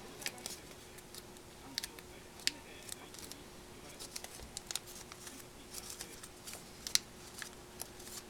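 Origami paper being folded and creased by hand: irregular short, crisp paper clicks and rustles, over a faint steady hum.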